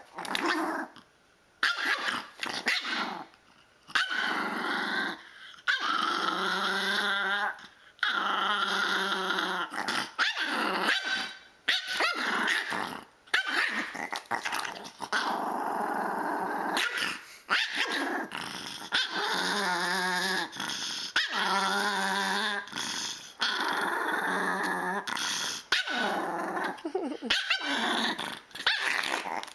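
A dog growling and barking in long, repeated runs with a wavering pitch, each one to two seconds long, with short breaks between them.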